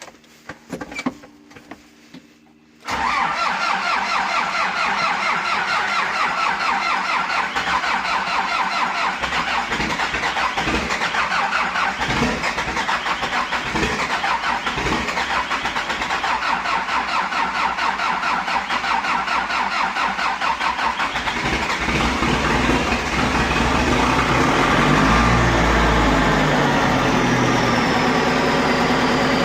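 Zetor 9540 tractor's diesel engine being cold-started in frost. After a few quiet seconds with light clicks, a loud rapid churning starts suddenly: the starter cranking the cold engine for a long spell. About twenty seconds in, the sound turns deeper and louder as the engine catches and runs.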